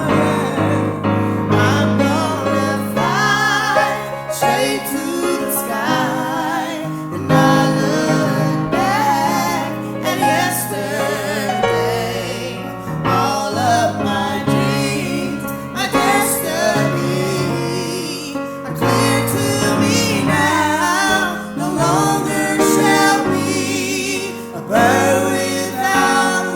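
Two women singing a song's chorus together with vibrato, over steady instrumental accompaniment.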